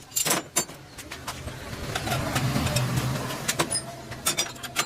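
Motorcycle engine running, swelling up about two seconds in and dying away near the end, with sharp clicks and clinks throughout.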